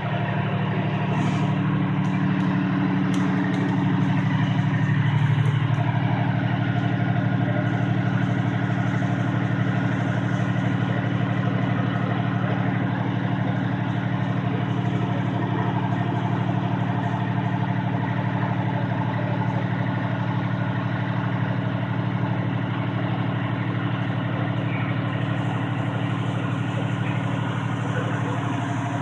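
A large vehicle engine idling steadily, a low drone that swells slightly about five seconds in.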